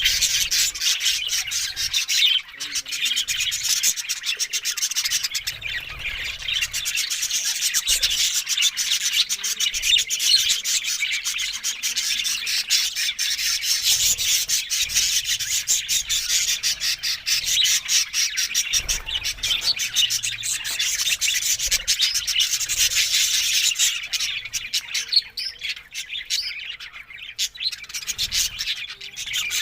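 Budgerigars chattering and chirping in a continuous dense warble, thinning out with short gaps in the last few seconds.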